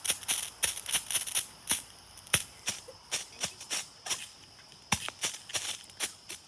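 A small lit firework crackling and fizzing: irregular sharp crackles, several a second, over a steady high hiss, thinning out a little after the middle.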